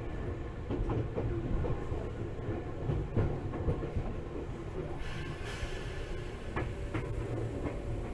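Running sound heard inside a Tokyu 8500 series electric train car: steady wheel-and-track rumble with scattered clacks over rail joints as the train runs into its terminus. About five seconds in, a high hiss joins the rumble.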